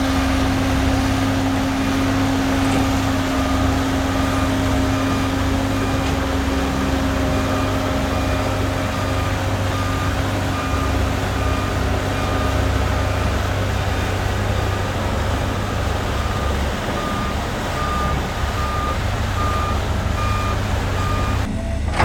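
Heavy diesel construction machinery running steadily, with a reversing alarm giving evenly spaced beeps.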